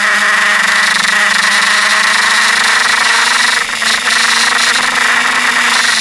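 Suzuki GSX-R K5 sportbike's inline-four engine running hard under way, recorded from the bike itself, loud and steady with a brief dip in level about four seconds in.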